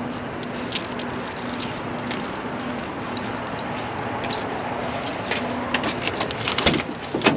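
Inside a tractor-trailer cab on the move: steady engine and road noise with a faint steady hum, and light jingling and rattling, like keys, that gets busier near the end.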